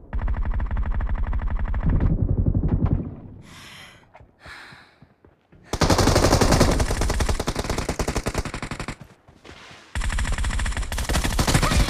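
Video-game automatic gunfire: three long bursts of rapid shots, one at the start, one about six seconds in and one near the end, with short lulls between them.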